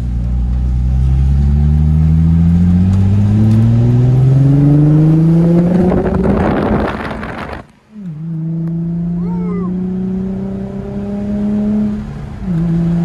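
Nissan 350Z's 3.5-litre V6 breathing through a Tomei aftermarket exhaust and Injen cold air intake, accelerating hard: its pitch rises steadily through a gear and builds to a loud, noisy peak, then drops away suddenly at a gear change about eight seconds in. It pulls on in the next gear with the pitch climbing slowly, with another quick shift near the end.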